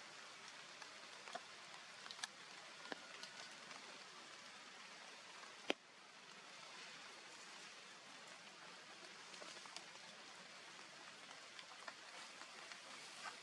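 Faint, steady outdoor hiss with scattered light ticks, and one sharp click about five and a half seconds in.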